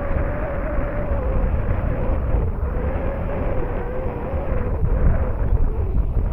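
Dynam Super Cub RC plane's electric motor and propeller whining in flight, a thin steady tone that wavers slightly in pitch, under heavy wind buffeting on the microphone.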